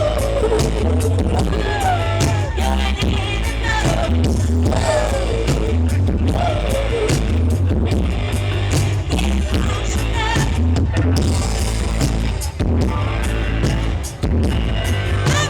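Live rock band playing loudly, with a woman singing a melody over heavy, booming bass and steady drum hits.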